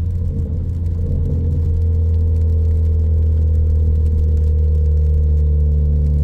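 2014 Ford Focus ST's turbocharged 2.0-litre EcoBoost four-cylinder with a high-flow catted downpipe and straight 2.5-inch exhaust, running at steady revs with an even, deep exhaust drone while cruising.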